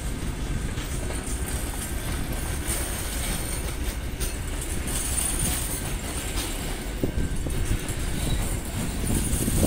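Kuranda Scenic Railway passenger carriages rolling past along the platform, a steady rumble and hiss of steel wheels on rail.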